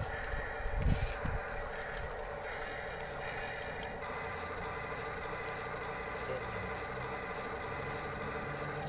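Electric motors and gearboxes of several radio-controlled toy construction machines whining steadily, a few tones at once, with a few low thumps about a second in.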